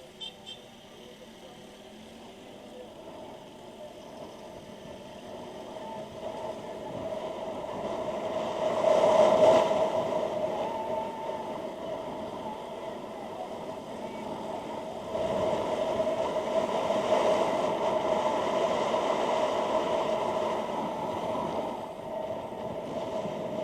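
Motorcycle riding noise picked up through a Freedconn R1 helmet intercom microphone: a steady engine hum under rushing wind. It builds from quiet over the first several seconds, is loudest about nine seconds in, and stays strong again from about fifteen seconds.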